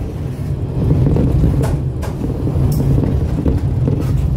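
Diesel railcar running along the line, heard from inside the carriage: a steady low engine and running rumble, with a few short sharp clicks over it.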